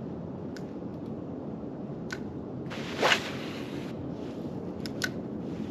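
A single short hiss or whoosh about three seconds in, the loudest thing heard, among a few light clicks, over a steady background of wind and water.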